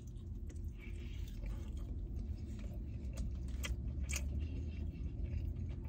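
A person chewing a mouthful of cheeseburger slider, with faint wet clicks of the mouth, over a steady low hum.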